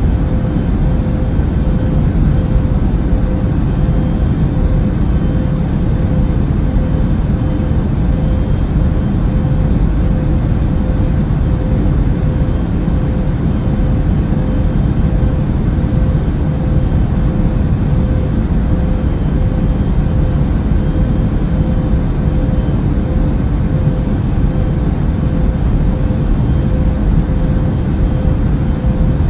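Airbus A380 cabin noise in cruising flight: a steady, even low rumble of engine and airflow with a constant hum running through it.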